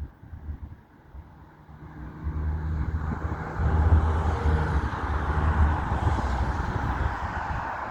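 Regional train passing close below, its rumble and running noise building from about two seconds in and staying loud.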